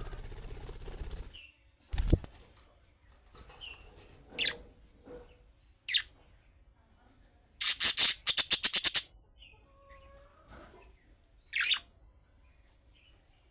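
Budgerigars: a few short, scattered chirps and a burst of rapid wing-flapping about the middle, with a rustle at the start and a single thump soon after.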